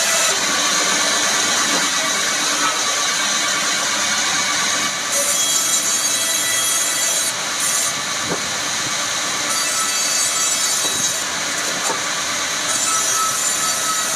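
Woodworking machine running steadily while cutting rubberwood: a continuous loud hiss with a faint high whine, changing a little in texture about five seconds in and again near the end.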